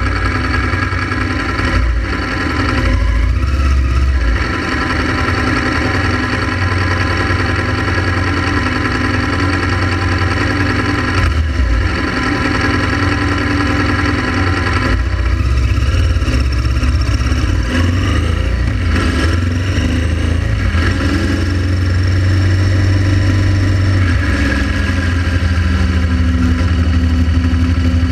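Honda Transalp XL700's V-twin engine running while riding, its note shifting up and down with speed.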